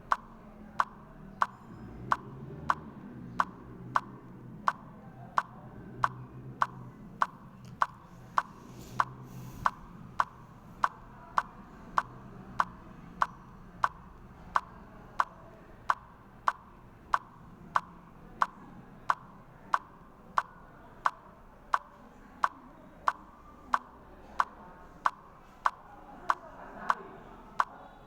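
Sharp, evenly spaced clicks, about three every two seconds, like a metronome or steady tick, over a faint low background hum.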